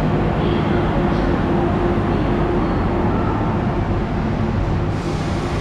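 Steady hum and rumble of a standing Renfe Class 112 high-speed train, heard at its open door and vestibule, with a low machine drone held under a general hiss.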